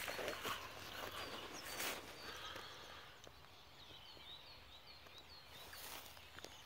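A small bird calling: a run of five or six short, high chirps from about four seconds in, after brief rustling, like steps through dry leaves, at the start and again about two seconds in.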